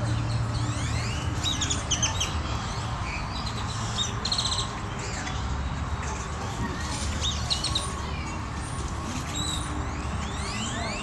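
Several birds chirping and calling in short clusters of quick rising whistles and rapid chirp runs, over a steady low hum.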